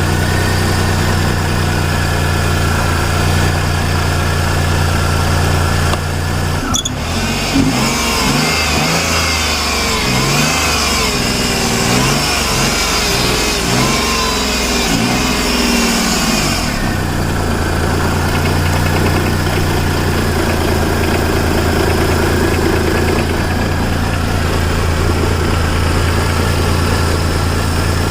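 Hyundai Eon's three-cylinder petrol engine running after a cold start: a steady idle, a click about seven seconds in, then the throttle revved up and down repeatedly for about ten seconds before it settles back to a steady idle. The engine runs on oil that has thickened from sitting about a year without an oil change.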